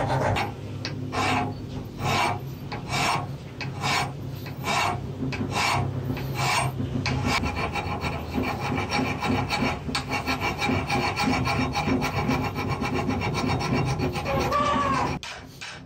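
Repeated rasping strokes, about two a second at first, then quicker and closely packed for the second half, stopping abruptly about a second before the end.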